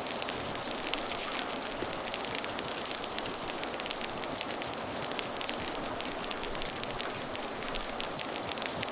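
Fire crackling, with many small irregular pops, over the steady hiss of rain.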